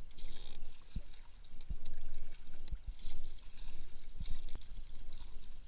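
Kayak paddle strokes splashing and dripping water, with several short low thumps in between.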